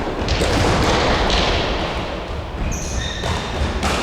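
Indoor futsal match in an echoing sports hall: thuds of the ball over a steady din of play.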